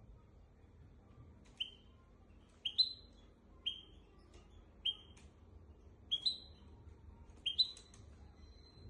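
Hybrid finch (goldfinch × canary mule) singing sparse, short sharp notes about a second apart, the last one drawn out into a thin held whistle near the end.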